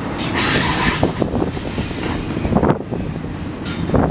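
Double-stack intermodal container cars of a Union Pacific freight train rolling by: a steady rumble of steel wheels on the rails with irregular clacks and knocks. Brighter, higher-pitched wheel noise comes up about half a second in and again just before the end.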